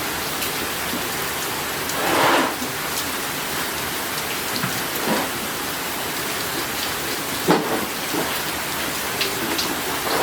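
Steady rain falling on a surface. A short louder swell comes about two seconds in, and a sharp knock about seven seconds in.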